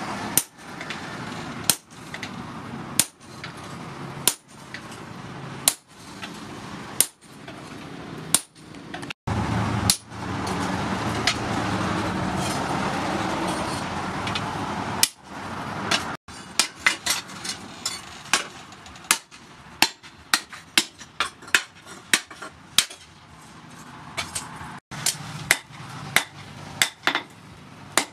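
Hammer blows on red-hot disc-plough steel on an anvil: first slow, heavy strikes about every second and a half on a handled hot chisel cutting the blade, then, after a stretch of steady rushing noise lasting several seconds, quicker and lighter hand-hammer blows, several a second, shaping the blank.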